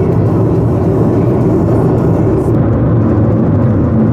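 Loud, steady low rumble of a car driving with strong storm outflow wind buffeting it.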